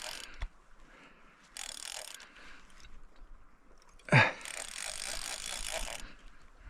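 Fishing reel being cranked in spells, its gears and anti-reverse giving a fine rapid ratcheting whir, as line snagged on a sunken tree is reeled in. A brief loud sound cuts in about four seconds in.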